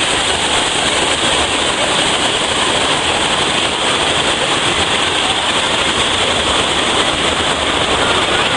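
Steady, loud rushing and splashing of water.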